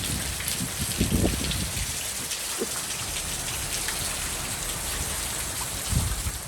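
Pretty intense rain falling steadily, an even hiss of rain hitting surfaces, with a few low bumps about a second in and near the end.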